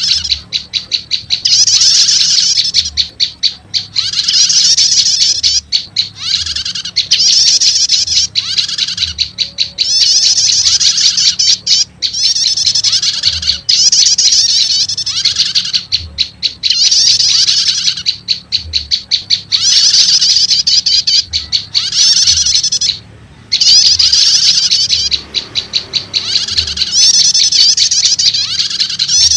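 Prenjak lumut (a small Indonesian warbler) lure calls mixed with another prenjak call, in repeated phrases of rapid high-pitched chirping and trilling with short gaps between, and one longer pause near the end. It is a recording for luring wild prenjak lumut into traps.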